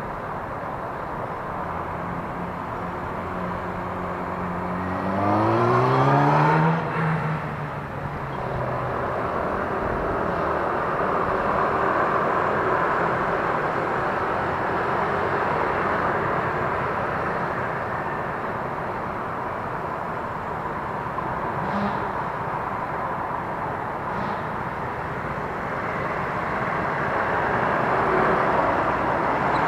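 Steady wind and road noise from riding an electric scooter in traffic. About five seconds in, a nearby vehicle's engine revs up, rising in pitch for a couple of seconds, then fades.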